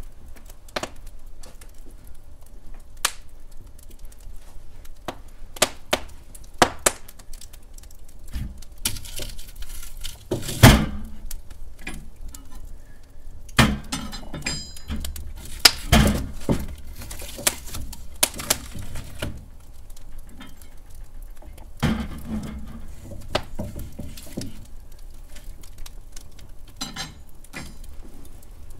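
Wood fire crackling in a hearth: irregular sharp pops and snaps, the loudest about ten seconds in, with short stretches of hissing from the burning logs.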